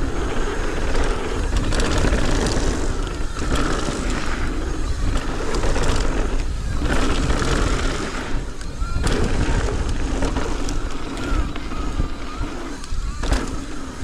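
Mountain bike tires rolling fast over a dirt trail, with a steady rush of wind and frequent knocks and rattles over bumps.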